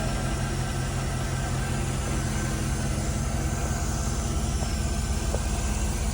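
2013 Mercedes-Benz G550's 5.5-litre V8 idling steadily through its factory sport exhaust, a low, even rumble with no revving.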